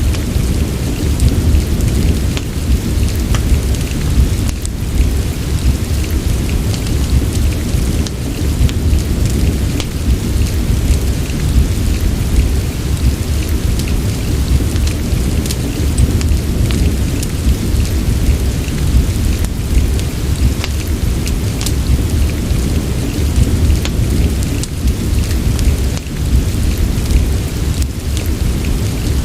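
Steady rain over a deep, constant low rumble, with scattered sharp crackles from a wood fire in a fireplace.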